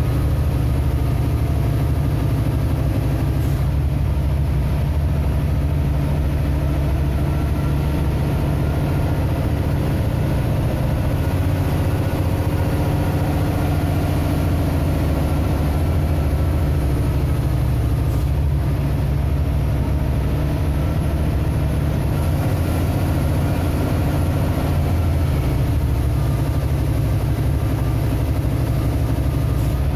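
Vehicle engine running steadily with a heavy low drone, its pitch drifting slowly up and down.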